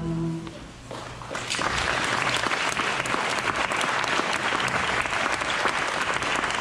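The last held note of a song fades out in the first half second, then an audience breaks into applause about a second and a half in, clapping steadily.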